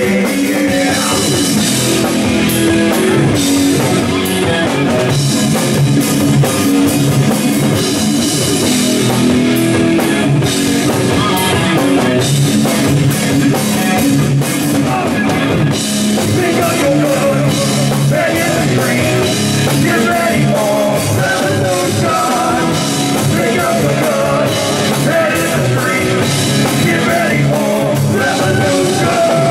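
Rock band playing live: drum kit, electric guitar and a singing voice.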